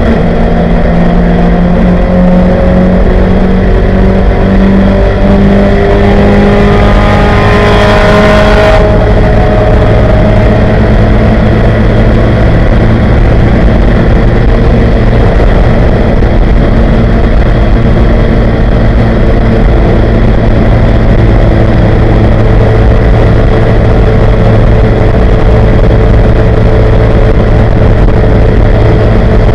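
1971 Ford Capri 2.0-litre race car engine at full throttle, heard inside the cabin over heavy wind and road noise. Its pitch climbs for about nine seconds, breaks off sharply, then it holds nearly steady at high speed.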